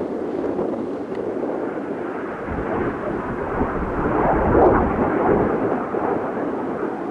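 Kawasaki T-4 jets passing, a rushing jet roar that swells with a deep rumble to its loudest a little past halfway, then eases off.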